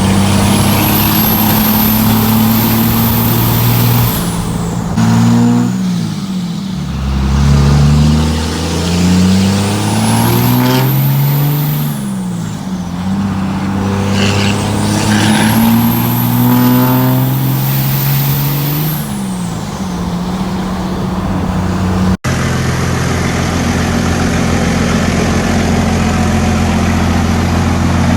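24-valve Cummins 5.9 L inline-six turbo diesel with a VP44 injection pump running, its engine speed rising and falling about three times with a high turbo whistle climbing and falling away each time. Near the end it settles to a steady run.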